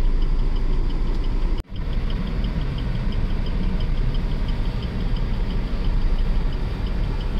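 Car engine idling, heard inside the cabin as a steady low rumble while the car waits at a red light, with a faint, even ticking running through it. The sound drops out sharply for an instant about a second and a half in.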